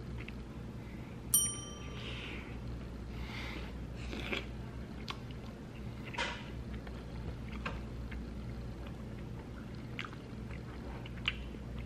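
Biting and chewing sounds of someone eating a warm rhubarb-filled donut: soft wet mouth noises and small clicks. A short, bright bell-like ding about a second in is the loudest sound.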